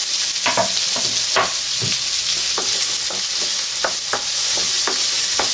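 Garlic and onion sizzling in butter in a frying pan while being stirred: a steady hiss of frying with repeated short scrapes and taps of the utensil against the pan, one or two a second.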